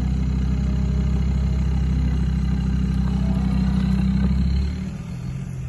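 Off-road 4x4 engine running steadily with a low, even drone, which drops off abruptly nearly five seconds in to a quieter, rougher rumble.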